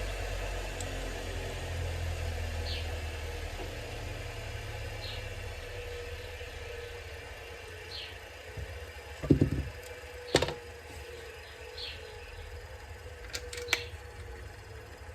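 Workshop background: a low hum that fades over the first few seconds under a steady faint tone, with a faint short chirp about every two and a half seconds. A few sharp knocks and clicks from handling hard objects come in the second half, the loudest about halfway through.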